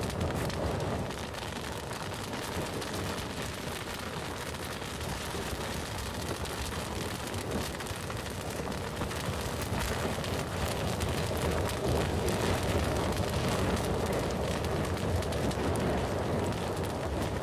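Bonfire of wood burning steadily: a low rushing of flames with frequent small crackles and pops.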